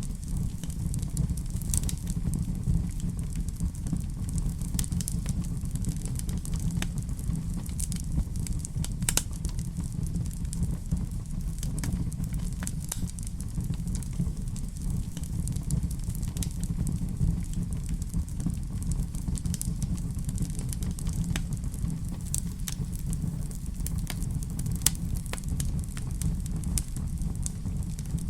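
Wood fire crackling in a fireplace: scattered sharp pops and crackles over a steady low rumble.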